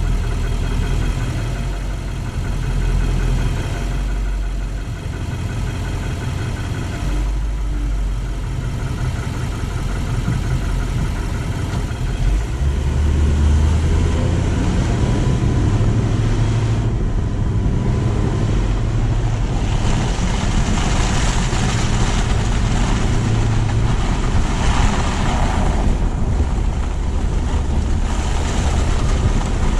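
Car driving: steady engine and tyre noise, with the road noise growing louder and hissier in the second half.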